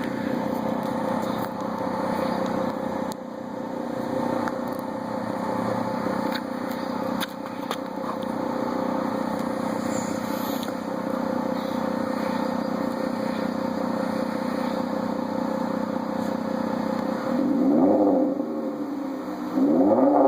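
Chrysler 200's engine idling steadily through a Corsa aftermarket exhaust, then revved twice near the end, the pitch rising and falling each time.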